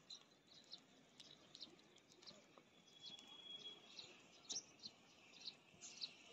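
Faint birds chirping: scattered short, high chirps, a few a second, with one briefly held high note about three seconds in.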